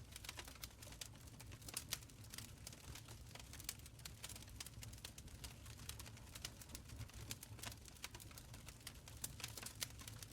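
Open fire crackling in a stone fireplace: faint, irregular snaps and pops over a low, steady rumble.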